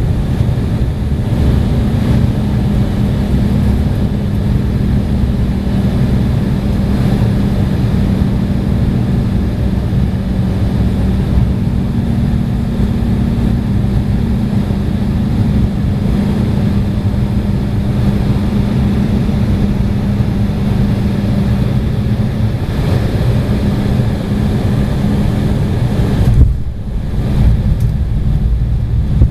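Cabin noise of an Embraer E175 airliner in flight: the steady rush of its turbofan engines and airflow with a low hum. Near the end a sudden bump is heard and the noise changes, with less hiss.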